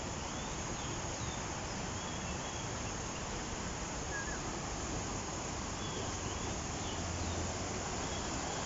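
A few faint, short bird chirps scattered over a steady outdoor background hiss.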